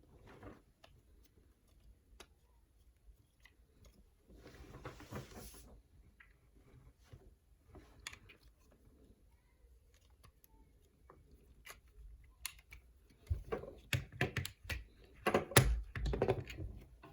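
Plastic action figure being handled and worked: scattered small clicks, a rustle of about a second and a half near the start, then a quick run of louder plastic clicks and knocks near the end.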